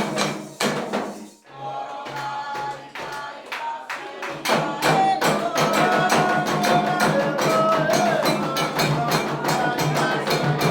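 Music of drums and hand percussion with singing voices. It drops away briefly about a second and a half in, then comes back fuller from about four and a half seconds, with steady rhythmic strokes under held sung notes.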